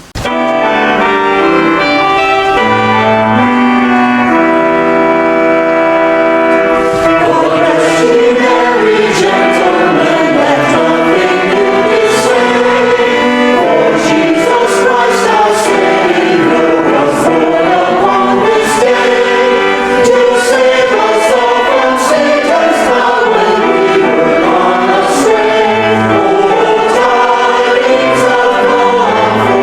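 Church choir singing an Advent piece, starting suddenly with held chords for the first several seconds and then moving into flowing melodic lines.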